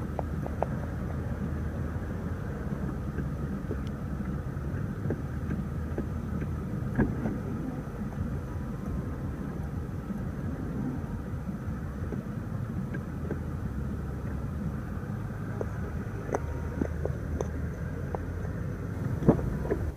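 Steady low rumble and hum inside a car cabin, with a few light clicks.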